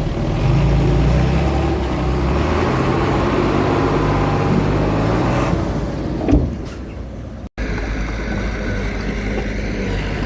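Komatsu D21A mini bulldozer's diesel engine running while working, with a single knock about six seconds in. The sound drops out for an instant about halfway through, then the engine carries on steadily.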